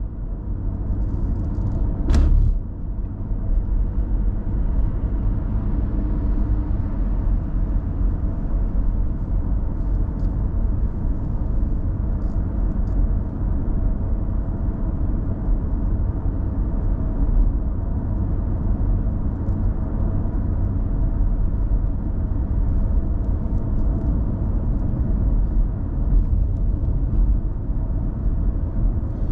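Steady low rumble of a car on the move, engine and road noise, with a single sharp knock about two seconds in.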